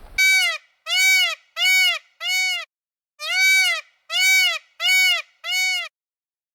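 An animal call, short and pitched, rising then falling, repeated eight times in two groups of four with dead silence between.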